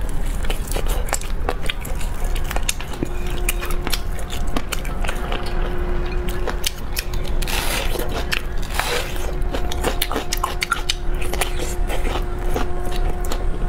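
Close-miked biting and chewing of braised pork meat pulled off a pork fan bone (shoulder blade), full of sticky wet clicks and smacks. A faint steady hum runs underneath from about three seconds in.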